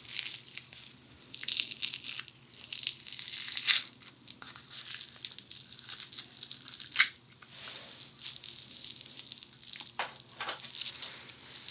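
Funny foam, a sticky foam-bead clay, being squeezed and pulled apart right at a binaural microphone: dense, sticky crackling and popping of the tiny beads, with sharper snaps about 4, 7 and 10 seconds in.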